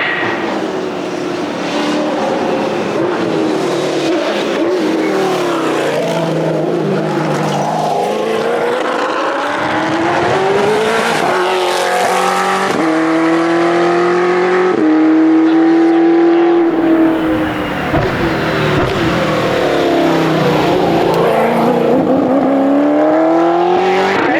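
The 1988 Giocattolo Group B's mid-mounted V8 heard from inside the cabin, accelerating hard through the gears: engine note climbing, stepping down at each upshift. About two-thirds of the way through it drops off on braking, then picks up and climbs again.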